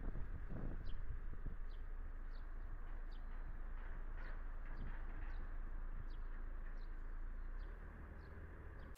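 A bird chirping over and over: about a dozen short, faint, high chirps a little under a second apart, over a steady low rumble.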